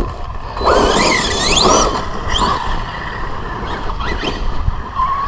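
Arrma Granite RC monster truck's electric motor whining, rising in pitch again and again as the truck accelerates in bursts, with a brief rush of noise about a second in.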